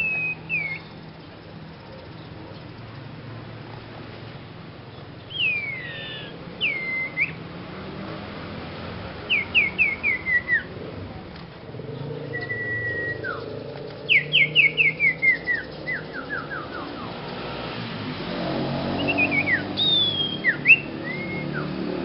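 A young sirpu songbird singing in short whistled phrases: slurred rising and falling whistles, a held note that drops away, and two quick runs of short notes stepping down in pitch, the longer about ten notes in a row. This is a beginner bird whose song sounds strange.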